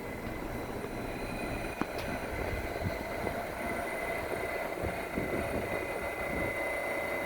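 Busan Metro Line 1 subway train (a new Woojin-built car) running between stations, heard from inside the car: a steady rumble with thin high-pitched electrical whines and a few faint clicks.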